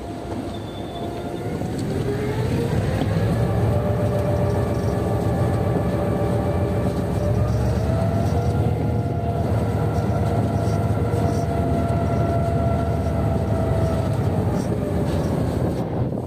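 Diesel locomotive engine throttling up as it moves off: its hum rises in pitch over a couple of seconds, then runs steady under load with a heavy low rumble.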